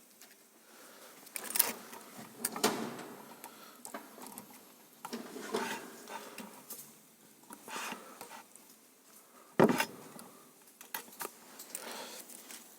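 Handling of a metal feeler gauge set and small tools: scattered clicks, clinks and knocks, with one sharper knock near the end.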